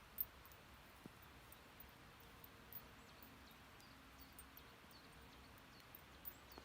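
Near silence: faint night-time ambience with a few soft scattered clicks, one sharper click just after the start.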